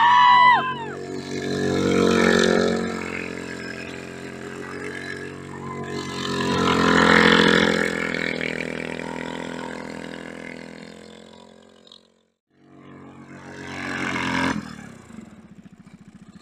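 Royal Enfield 500 cc single-cylinder engine of a student-built formula car revving up and down as the car drifts on dirt, rising and falling in three swells with a brief gap about twelve seconds in. It runs with the throttle limited to about a quarter.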